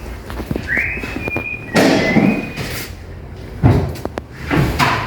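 A person whistling a few notes, the pitch sliding up and then holding, over a background of workshop clatter. Two or three sharp metallic clunks and knocks come about two seconds in, again near four seconds, and near the end.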